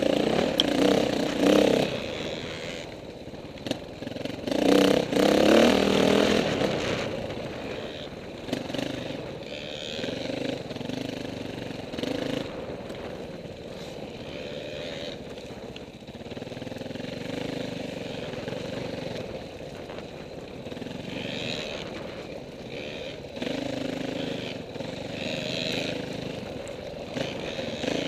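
Off-road dirt bike engine revving up and down as it is ridden, louder at the start and again about five seconds in.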